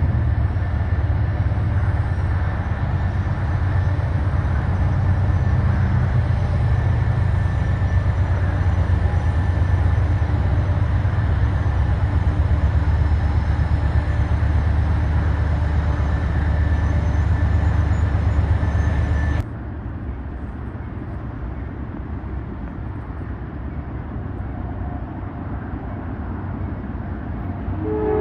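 Diesel locomotive and train running past with a heavy, steady low rumble. About 19 seconds in it cuts off suddenly to a quieter, even rumble.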